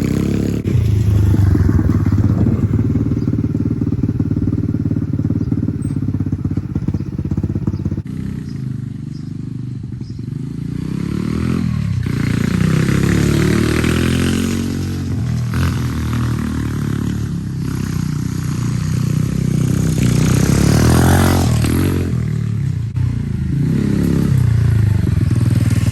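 Small Chinese dirt bike (DB-X29 X-Pro) engine running and being revved, its pitch rising and falling back several times.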